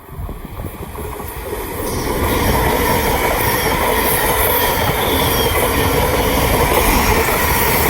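Thameslink Class 700 electric multiple unit running through the station. The sound of its wheels on the rails builds over the first couple of seconds, then holds as a steady loud rumble as the train passes.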